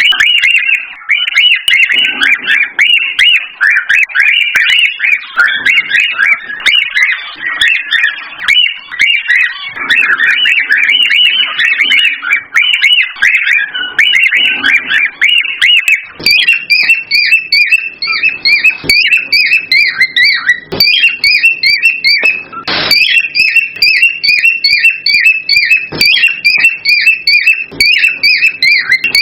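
Cockatiel mating calls: dense, high chirping and whistling. About halfway through it changes to a fast, even run of short repeated chirps.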